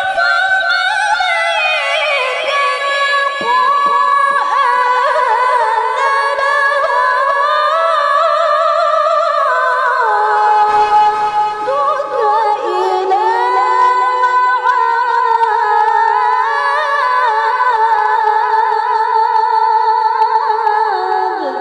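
A woman's high, clear voice reciting the Qur'an in melodic tilawah style, holding long ornamented notes in one unbroken phrase that fades out at the very end.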